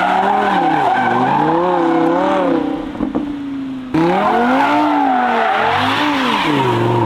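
Lamborghini Huracan's V10 engine revving up and down through donuts, the revs rising and falling repeatedly over tyres squealing as they spin. The sound breaks off abruptly about four seconds in and picks straight up again.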